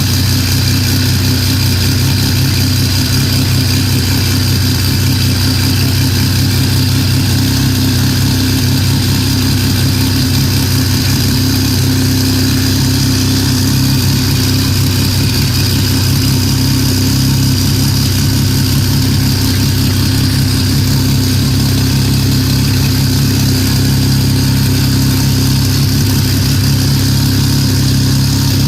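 JGTC Pennzoil Nismo GT-R race car engine idling steadily and loudly, a constant pitch with no revs.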